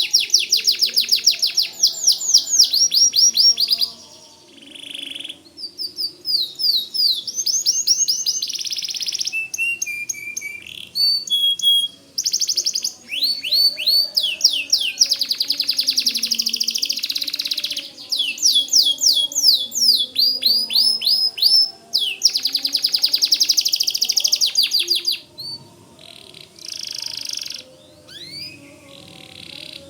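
White domestic canary singing: long phrases of fast trills, each a rapid run of repeated notes, separated by short pauses.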